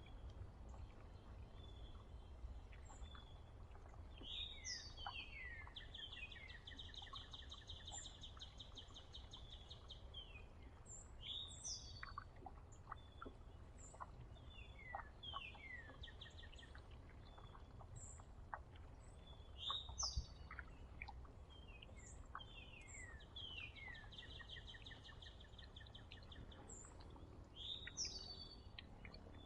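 A songbird singing a repeated phrase: a few quick down-slurred whistles followed by a long fast trill, several times over, with short high chips from other birds in between. A steady low rumble sits underneath.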